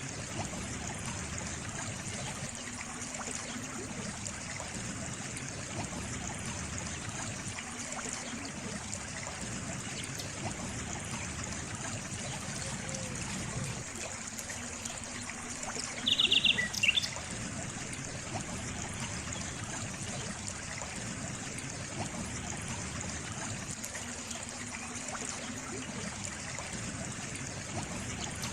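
Water trickling and running steadily, as from a small stream. A little past halfway a short burst of high chirps stands out above it.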